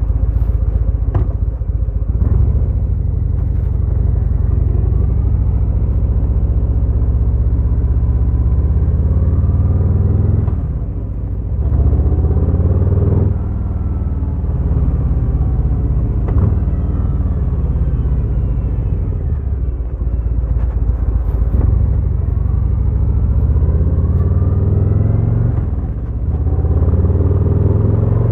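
Harley-Davidson Fat Boy's V-twin engine under way, its pitch rising repeatedly as it accelerates. The sound dips briefly about eleven seconds in and again near the end, as the throttle closes for a shift.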